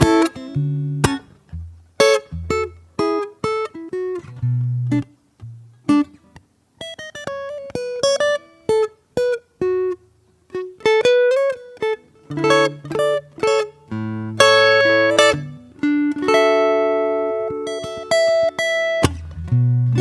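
Solo acoustic guitar being played in a slow improvisation. Plucked bass notes and chords come first, then a run of single melody notes in the middle, then fuller ringing chords near the end.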